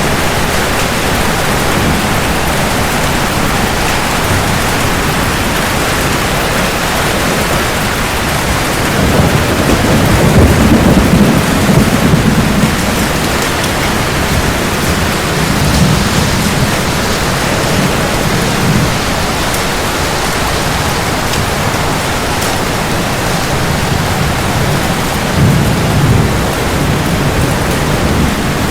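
Steady heavy rain with thunder. A long, low rumble swells about nine seconds in and dies away after about four seconds, and weaker rumbles follow, the last one near the end.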